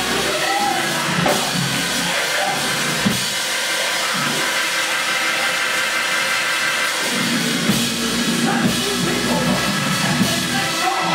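Live church band music: a drum kit keeping a beat under sustained held chords.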